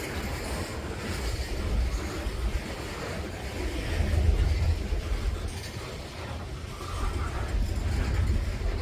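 Freight train rolling past: a steady low rumble of the cars on the rails, swelling about four seconds in and again near the end.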